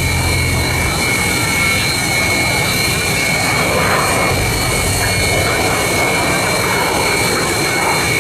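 Sukhoi Su-30MKM's twin AL-31FP turbofan engines running steadily on the ground: a constant jet roar with a steady high whine.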